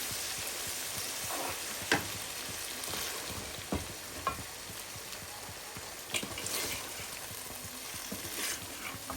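Onion-and-spice masala sizzling in oil in a pan, cooked down dry, with a steady hiss. A spatula stirring it knocks and scrapes against the pan a few times.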